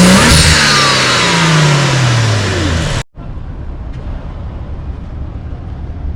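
A car engine revving loudly: the note holds high, then falls as the revs drop. It cuts off abruptly about three seconds in, and a much quieter steady low engine rumble follows.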